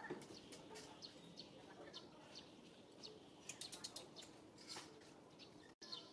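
Faint high-pitched chirps of small birds, scattered and clustering into a quick run of several chirps around the middle, over a quiet background; the sound drops out for an instant near the end.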